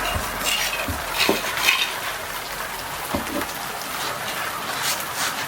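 Scattered light clinks and taps of small hard objects over a steady hiss.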